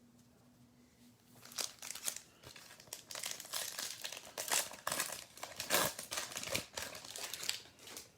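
Plastic wrapper of a trading card pack being torn open and crinkled by hand, an irregular run of crackles that starts about a second and a half in.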